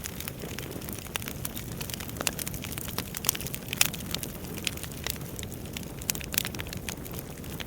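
Wood fire burning in a fireplace: a steady low rumble of flames with irregular sharp crackles and pops of burning logs, one pop louder than the rest a little before the middle.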